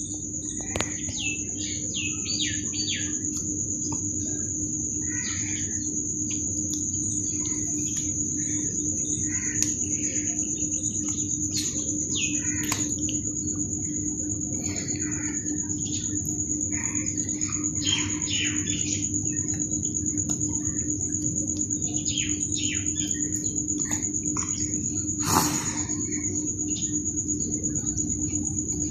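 Small birds chirping, short calls scattered all through, over a steady high-pitched whine and a low steady hum. One sharp click or knock near the end.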